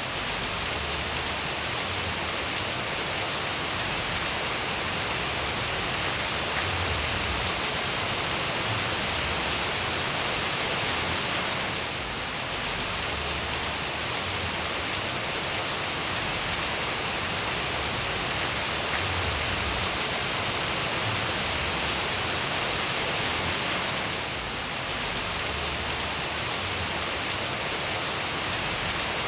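Steady rain falling, a dense even hiss of drops, dipping slightly in loudness about every twelve seconds.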